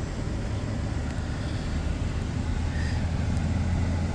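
Steady low rumble of a running engine, with faint light ticks here and there.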